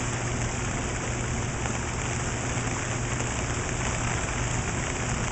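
Steady heavy rain drumming on an umbrella overhead, with a constant low hum underneath.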